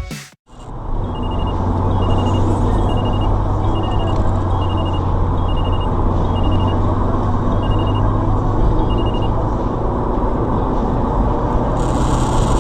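Steady low rumble of a vehicle driving, heard from inside, with a short high beep repeating about once every 0.7 seconds until about nine seconds in. Near the end there is a hiss lasting under two seconds.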